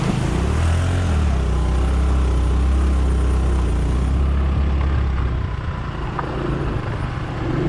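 Vehicle engine pulling hard at low revs over a rough off-road track, with a heavy low drone that eases off about five seconds in, under a constant rumble of the vehicle bouncing over the ground.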